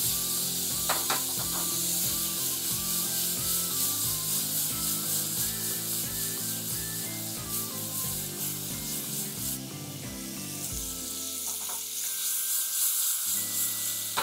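Squid rings and tentacles sizzling steadily as they fry in melted butter in a pan, with background music playing; the music thins out near the end.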